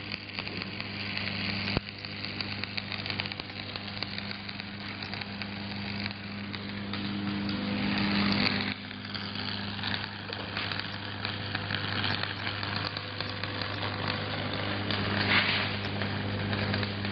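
Shielded metal arc (stick) welding: the arc crackles and sizzles continuously over a steady low hum.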